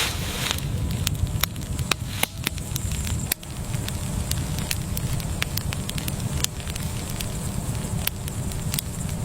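Fire crackling: scattered sharp pops over a steady low rumble.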